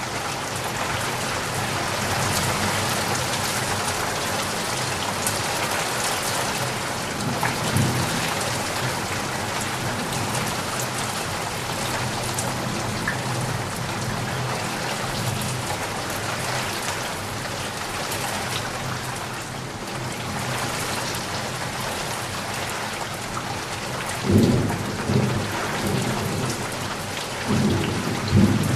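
Steady, dense rainfall, with a few short low rumbles about eight seconds in and twice near the end.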